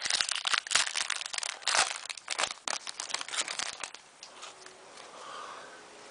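Hockey card pack wrapper being torn open and crinkled, a dense crackle for about four seconds that then dies down to faint handling.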